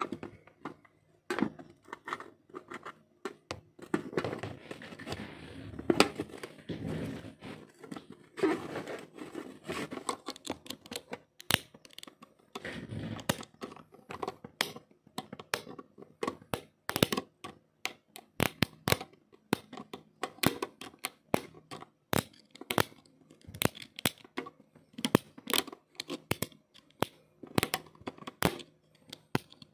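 Hands working on an Asus A456U laptop during a battery replacement: scraping and rustling at first, then a long run of irregular sharp clicks and snaps, several a second.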